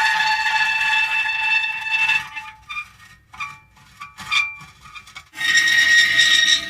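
Metal creaking: a long, high-pitched squeal of metal rubbing on metal, breaking up into short stuttering squeaks about two seconds in, then another long squeal near the end.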